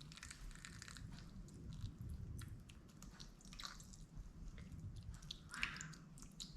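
Faint wet squishing and small clicks of someone eating fresh berries soaked in coconut water, with one slightly louder squelch about five and a half seconds in.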